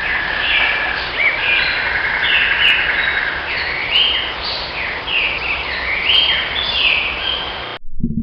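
Several birds calling together: many short, overlapping chirps and downward-sliding notes over a steady background hiss, cutting off abruptly shortly before the end.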